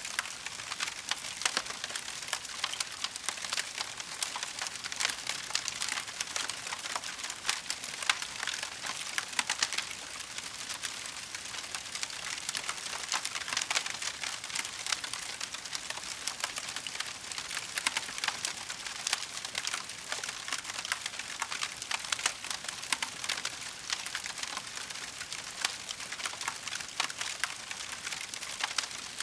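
Wood fire crackling steadily in a fireplace, a dense run of small pops and snaps over a soft hiss.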